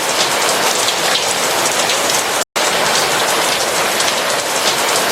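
Steady rain, dense and even, with many individual drops pattering. The sound cuts out completely for a split second about halfway through, then resumes unchanged.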